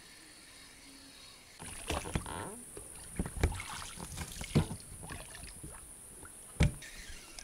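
A small boat being rowed: oar strokes in the water, with several sharp knocks of the oars against the boat. The rowing starts about a second and a half in.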